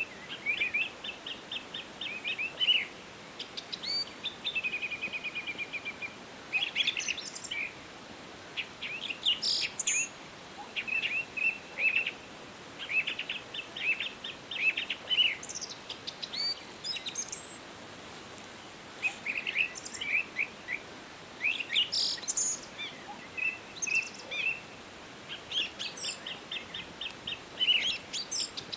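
Several songbirds singing in a forest, a mix of rapid trills and repeated chirps with a few higher whistled notes, over a steady soft hiss.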